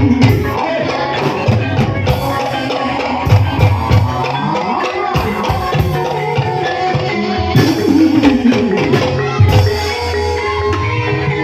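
Live gamelan music accompanying an ebeg horse-trance dance: steady ringing melodic tones over busy hand-drum beats, with falling, bending drum or voice pitches about two seconds in and again near eight seconds.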